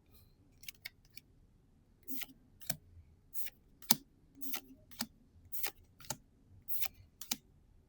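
Trading cards being slid off a stack one at a time: a few faint clicks, then about ten short swishes at an even pace of roughly two a second from about two seconds in.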